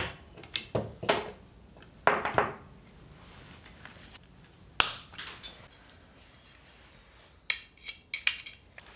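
Metal tools and parts clinking and knocking during hands-on mechanical work, a few separate knocks early on, one sharp clink about five seconds in, and a quick cluster of ringing metallic clinks near the end.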